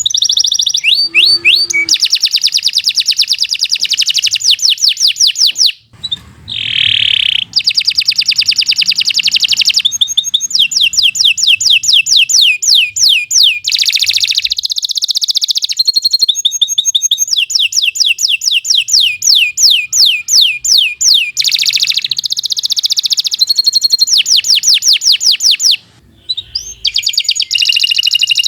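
Domestic canary singing a long, loud song of fast trills, each made of one note repeated many times a second, changing from one trill to the next, with brief pauses about six seconds in and near the end.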